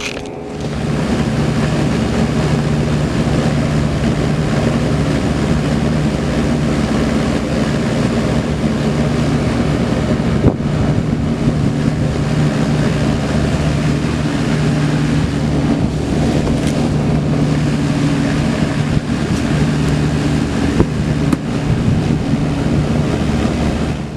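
Rooftop packaged air-conditioning unit starting up about half a second in, then running steadily with a loud, even hum from its compressor and condenser fan.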